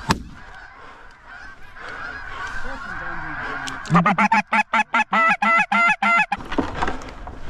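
A single sharp shotgun shot right at the start, then faint goose honking, then a fast run of loud goose honks, about four a second, for a couple of seconds before it stops abruptly.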